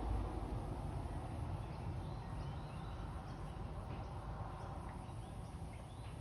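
Wind buffeting the microphone, a low rumble that slowly eases off, with faint short bird chirps over it.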